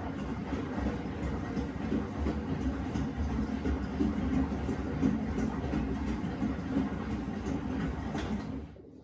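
Miele WS 5508 washing machine running in its wool programme: a steady low mechanical noise that cuts in suddenly and dies away after about eight and a half seconds.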